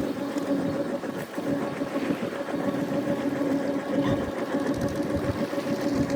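A boat's engine running steadily: an even hum with a fast, regular chatter.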